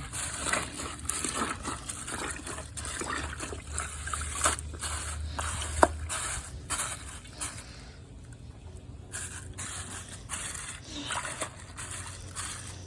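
Water trickling and running in a toilet, with scattered rustles and clicks of handling and one sharp click about six seconds in. It goes quieter for the second half.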